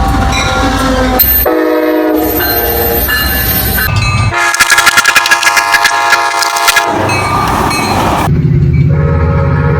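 Locomotive air horns sounding in several short clips cut together, each a chord of steady tones. Near the end a locomotive's diesel engine is heard running with a low, steady rumble.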